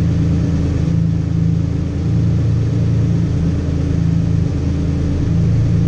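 Lamborghini Diablo SE30's 5.7-litre V12 idling steadily, heard close up from its rear engine cover.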